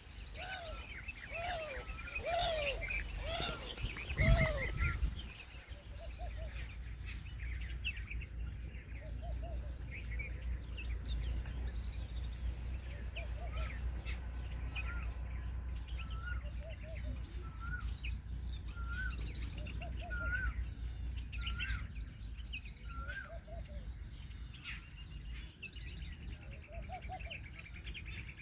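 Several birds calling: a quick run of repeated arching calls in the first few seconds, then scattered chirps and short repeated call notes, over a steady low rumble.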